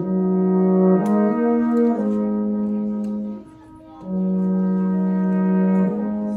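Brass quartet playing slow, held chords that change every second or two, with a brief break of about half a second a little past halfway.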